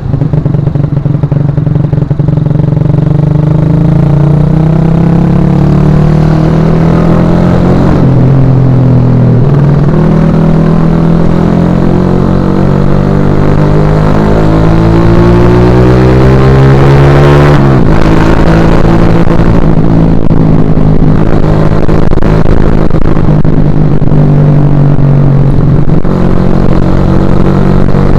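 2011 Suzuki Shogun Axelo R motorcycle's single-cylinder four-stroke engine under way. Its revs hold steady, then climb smoothly for about eight seconds, fall suddenly at a gear change, and settle steady again.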